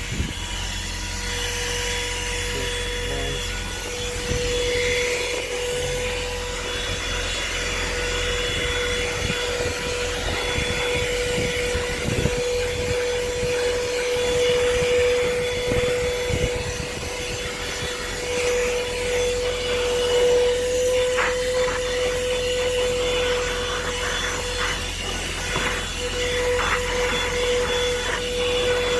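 A 12-volt corded car vacuum cleaner running with a steady, pretty quiet motor whine and the rush of air through its brush nozzle. From about two-thirds of the way in, short clicks and rattles come as dirt is drawn in.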